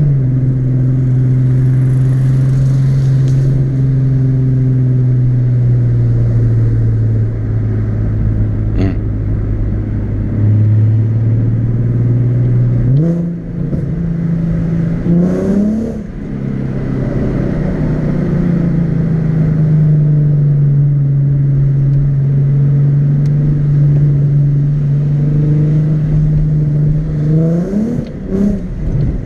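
Nissan 370Z's 3.7-litre V6 engine heard while driving: it holds a steady note that sags slowly at first, revs up sharply twice about halfway through as the car accelerates, settles into a steady cruise again, and climbs once more near the end.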